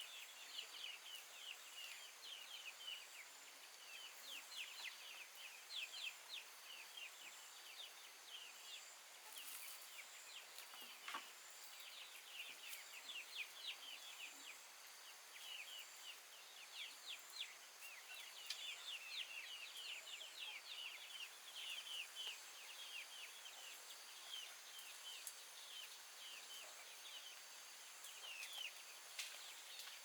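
Faint, rapid high-pitched bird chirping in repeated flurries of short, downward-slurred notes, over a steady thin high tone.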